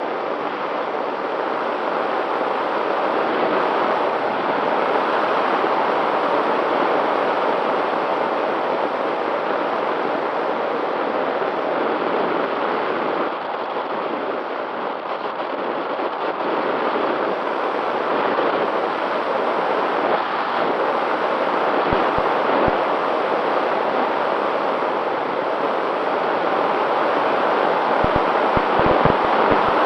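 Strong wind rushing over the microphone, a steady roar with a faint steady tone underneath and a few low buffeting thumps near the end.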